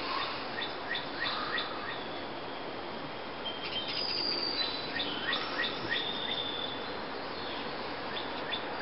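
Several wild songbirds chirping and calling: runs of short rising chirps and a few longer, thin, high whistles, over a steady outdoor hiss.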